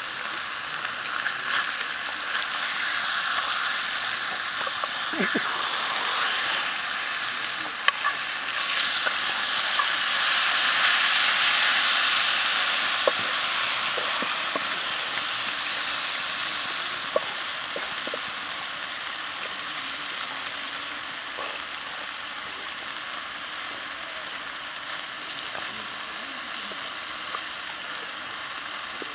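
Pig's groin meat and vegetables frying in shallow oil in a flat black pan: a steady sizzle that grows louder around ten to twelve seconds in, with a few sharp pops.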